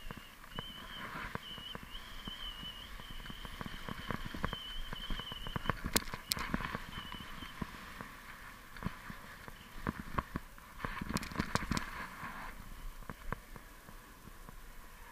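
Snowboard riding over snow: a steady scraping hiss with many irregular knocks and clicks, and a thin wavering high whine for about the first six seconds.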